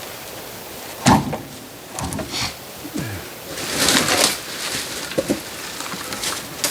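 Oak firewood being handled: a sharp wooden knock about a second in, then scraping and rustling, and a smaller knock a few seconds later.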